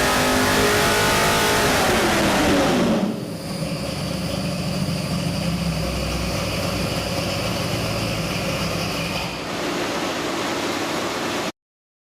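427 Windsor stroker small-block Ford V8 with MSD Atomic EFI running on an engine dyno, held at high revs, then the revs fall off over about a second and it settles to a steady lower speed. The sound stops abruptly near the end.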